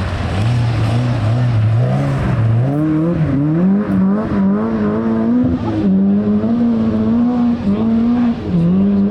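Rally car engine being driven hard on a stage. It runs at low revs for about two seconds, then climbs and holds high revs, with short dips in pitch as the driver lifts off or changes gear.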